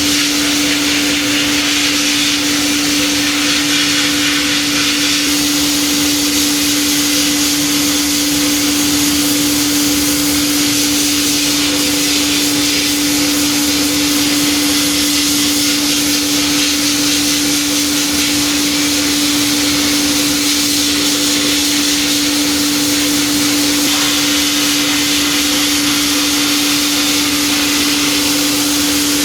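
Sandblasting a rusty steel wrench: a steady, unbroken rush of compressed air and abrasive grit, with a constant hum underneath.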